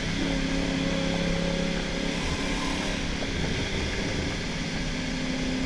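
Car engines running at a steady cruise with no revving, a constant drone heard from inside the cabin of one of two cars rolling side by side.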